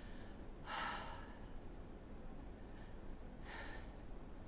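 A woman breathing: two audible breaths, about a second in and again about three and a half seconds in.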